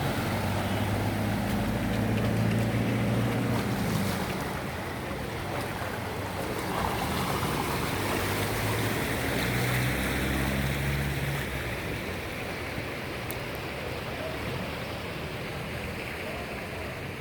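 Vehicle engine running through rushing, splashing floodwater. The engine hum is strongest for the first four seconds and again from about seven to eleven seconds, over a steady wash of water.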